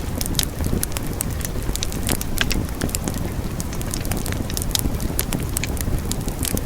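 Wood fire burning with a steady low rumble and many sharp, irregular crackles and pops.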